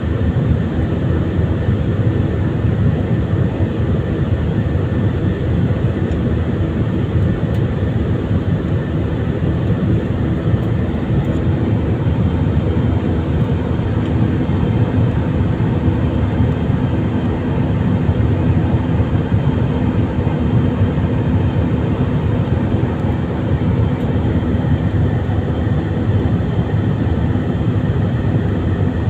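Steady drone of an Airbus A320ceo's jet engines and airflow, heard inside the cabin, with a deep even rumble and a few steady hum tones over it.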